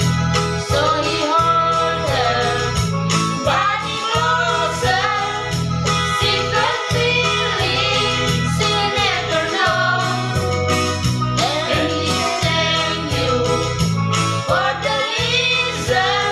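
Singing over an electronic keyboard backing with a steady, pulsing bass beat, the sung melody wavering above it.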